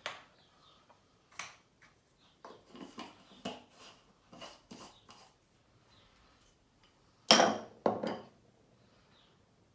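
A spoon clinking and scraping against a bowl and spice container as tandoori powder is scooped in, in a run of short knocks, with two louder knocks near the end.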